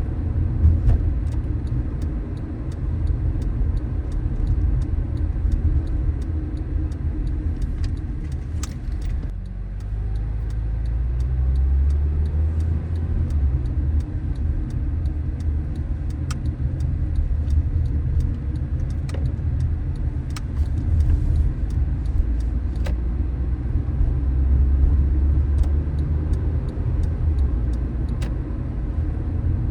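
Car driving on city streets: steady low engine and tyre rumble. It dips briefly about nine seconds in, then picks up again with a rising engine hum as the car accelerates.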